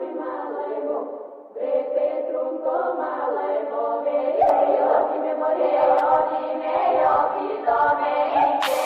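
Choral singing, several voices holding long sung notes with a short break about a second and a half in; near the end fuller music with a beat comes in.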